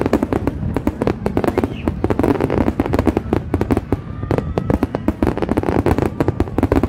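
Fireworks display: a dense, unbroken barrage of rapid, overlapping bangs, many each second.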